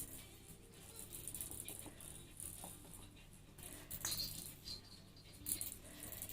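A small toy ball rattling in short, uneven bursts as the parrot pushes and shakes it.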